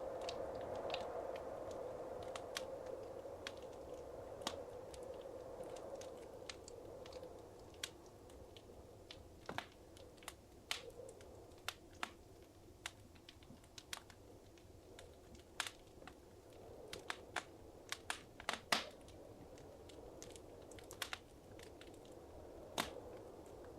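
Wood fire crackling in a fireplace: irregular sharp pops and snaps over a soft low rush of flame, with a cluster of louder pops in the middle.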